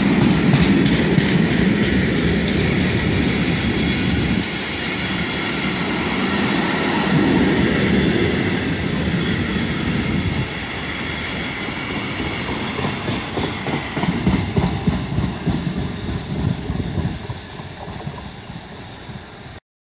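Freight train of covered wagons rolling past close by, wheels clicking over the rail joints. The sound fades as the last wagons pull away and cuts off abruptly near the end.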